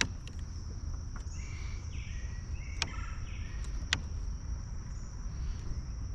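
Steady high-pitched drone of insects, crickets or similar, over a low rumble, with a few short bird chirps. Two sharp knocks about three and four seconds in stand out as the loudest moments.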